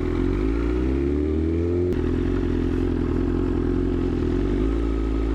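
Motorcycle engine running while riding slowly, its pitch rising for about two seconds, then holding steady before dropping away at the very end.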